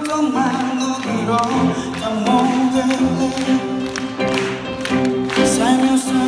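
A song: a voice singing a melody over steady instrumental accompaniment.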